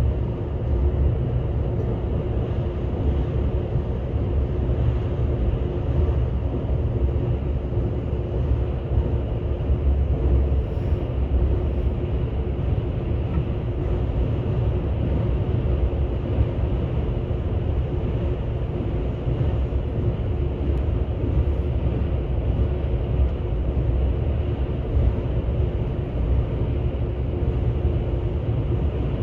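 Steady running noise of the Sunrise Seto sleeper train, a 285-series electric multiple unit, travelling at speed: a continuous low rumble of wheels on rail with a faint steady hum.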